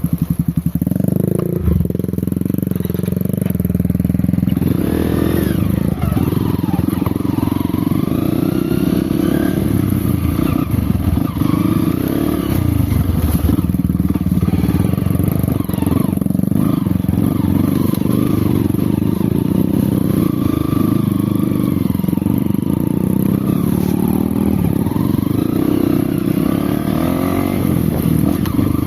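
Off-road motorcycle engine running loud and continuous, its pitch rising and falling as the throttle is worked on and off.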